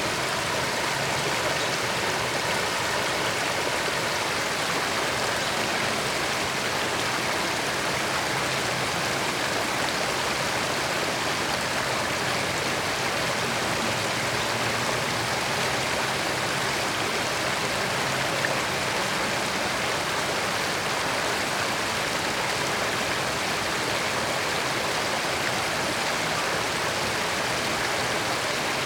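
A creek running: steady flowing water with no change in level.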